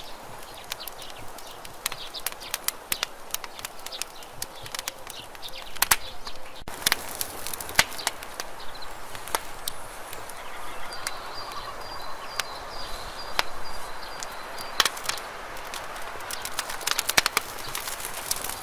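Campfire burning: irregular sharp crackles and pops of burning wood over a steady hiss. A faint, thin high whistle runs for a few seconds in the middle.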